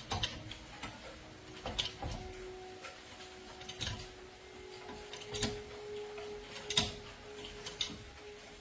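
Irregular clicks and knocks of tools and small metal engine parts being handled, a few seconds apart, over a faint steady hum.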